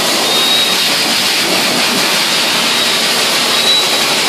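Blow dryer running, a steady loud rush of air, with a faint high whine coming and going twice.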